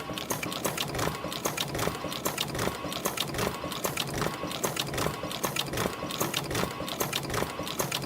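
Yeou Huey EF-210-W.D CNC extension spring machine running, a steady rapid mechanical clicking and clattering as it coils 0.4 mm wire and forms English hooks on extension springs at about 80 springs a minute.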